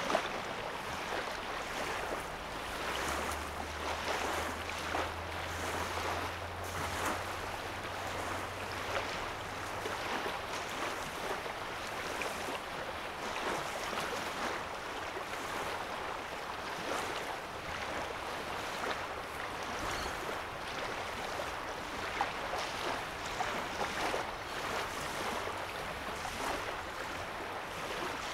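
Small lake waves lapping and splashing at the shoreline, a steady wash of water with many small splashes. A low hum runs underneath from about three seconds in to about ten seconds in.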